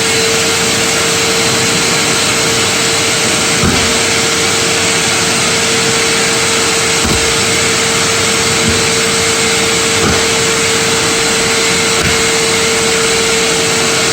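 Eureka Forbes Wet and Dry NXT vacuum cleaner running steadily at full suction with a constant whine, a few brief knocks as bits of plastic cover are sucked up the hose. Right at the end it is switched off and the whine begins to fall.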